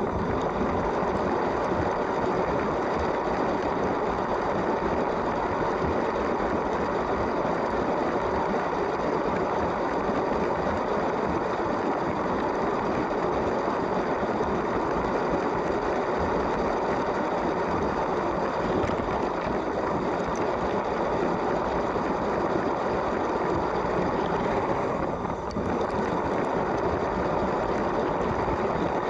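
A LEGO train running steadily on plastic track: its small electric motor and gears whirring and its wheels rumbling along the rails, with a brief dip about 25 seconds in.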